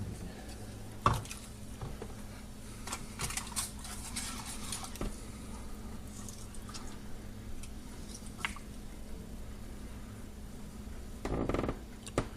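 Light clinks and knocks of a glass bowl and utensils being handled during a baking soda and aluminium foil silver-cleaning set-up, over a steady low hum. There is a sharp knock about a second in, a few quick clicks a few seconds later, and a brief rustling burst near the end.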